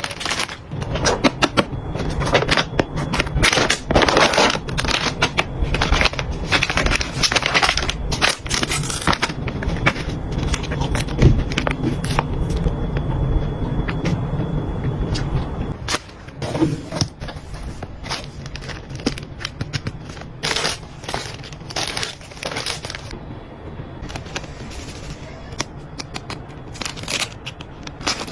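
Objects being handled: a run of clicks, knocks and crinkles over a low steady hum, which stops about sixteen seconds in, leaving sparser clicks.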